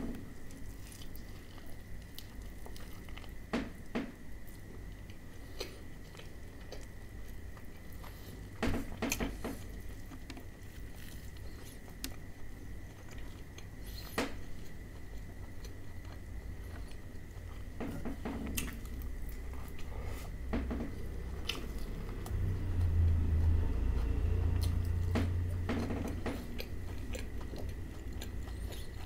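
Close-miked biting and chewing of crispy fried chicken (KFC Hot & Crispy): scattered crunches of the fried coating among wet chewing. A faint steady high tone runs underneath.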